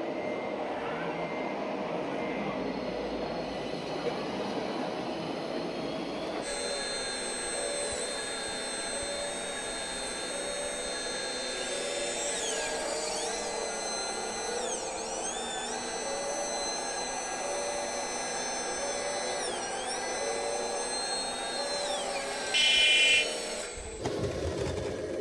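Small electric motors and gearing of an RC model vehicle whining, the pitch dipping and rising again as the speed changes. About two seconds before the end there is a short, louder tone.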